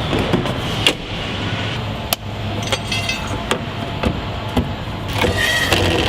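Truck assembly-line noise: a steady machinery hum with scattered sharp metallic clicks and clanks, and a few short beeps near the end.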